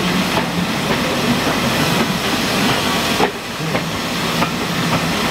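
Passenger coaches of a heritage train rolling slowly past close by: a steady rumble and hiss with a low hum, and a few clacks as the wheels run over rail joints.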